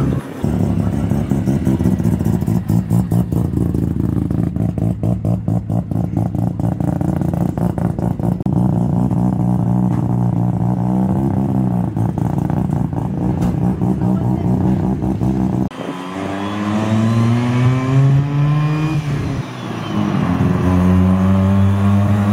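Sports car engines running and revving as cars pull out. Then one car accelerates, its pitch climbing, drops suddenly near the end as at a gear change, and holds steady.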